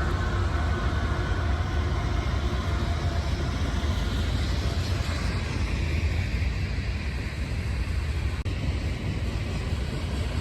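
Freight train rolling through a rail yard: a steady low rumble of locomotive and wheels on rail.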